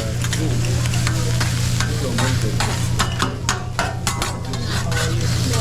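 Food sizzling on a hibachi griddle over a steady low hum, with a quick run of sharp spatula clicks on the hot plate about halfway through.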